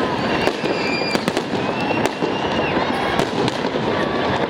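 Fireworks salute going off: a continuous run of sharp bangs and crackles, with several high whistles gliding in pitch over them.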